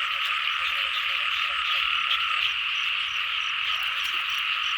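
A dense chorus of frogs calling steadily in a wet field at night, with a faint, evenly repeating high insect chirp above it.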